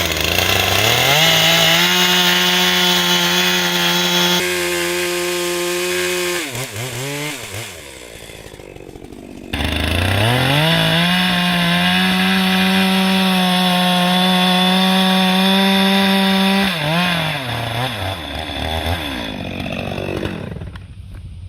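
Two-stroke chainsaw revved up to full throttle and held steady while cutting into wood, then let off, twice. The pitch climbs to a steady high note and falls back after each cut.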